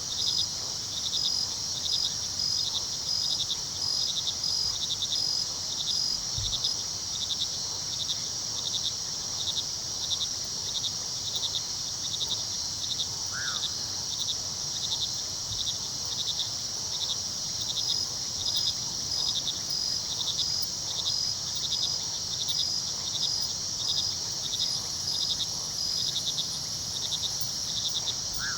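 Night chorus of crickets: a steady high trilling with one kind chirping in an even pulse a few times a second, over a low steady rush of river water. A single short call sounds once about halfway through.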